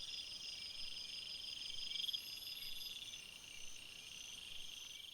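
Faint night chorus of crickets or bush crickets: several steady, high-pitched trills overlapping, one swelling briefly about two seconds in.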